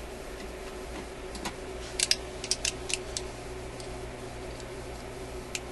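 Light clicks of a metal hand tool working at a screw on a radio chassis, a quick cluster of six or seven about two to three seconds in and one more near the end, over a steady low hum.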